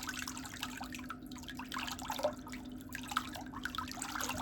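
Water dripping and splashing in small irregular drops over a steady low hum.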